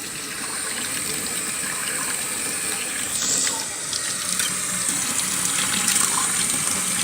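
Water running steadily from a tap into a sink, a constant rushing hiss.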